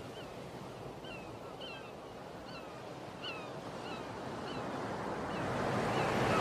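Sea surf washing in a steady rush that grows louder toward the end, with many short, falling bird calls repeated over it.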